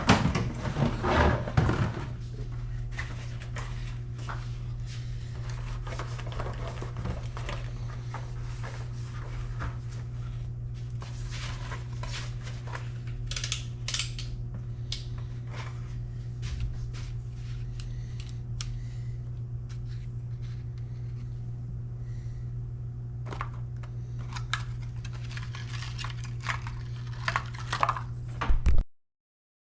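Hand tools and small metal engine parts clinking, tapping and scraping during hands-on cleaning work on a dirt bike engine, over a steady low hum. The handling is busiest at the start and again near the end, then stops abruptly.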